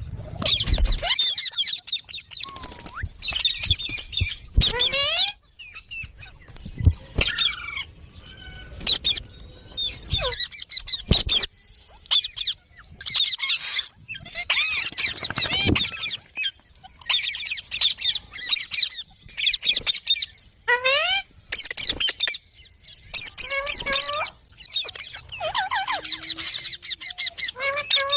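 Ringneck parrot chattering and squawking in repeated bursts of rapid, wavering high calls, with a few sweeping calls that slide down and up in pitch.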